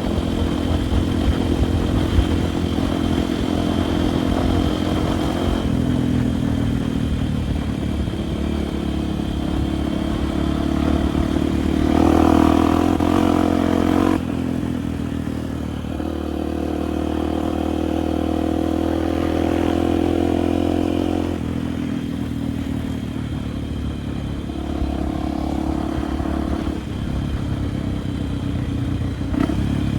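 Dirt bike engine running under changing throttle on a trail ride, its revs rising and falling in steps, with a louder, higher stretch about twelve seconds in.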